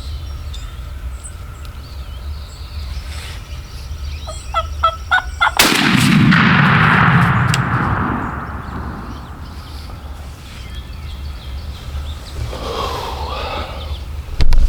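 Wild turkey gobbler calling close by in a short run of sharp notes. About five and a half seconds in comes a sudden loud shotgun blast whose echo rolls away over a few seconds, and a sharp knock sounds near the end.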